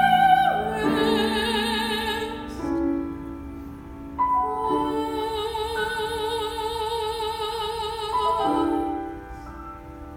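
A young soprano sings in a classical style with wide vibrato, accompanied by piano. She holds a high note, slides down, and ends on a long sustained note that stops about nine seconds in, leaving the piano playing softly.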